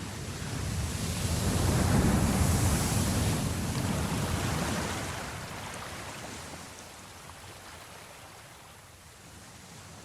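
Ocean waves: one wave swells and breaks about two seconds in, then washes back and fades to a lower steady surf.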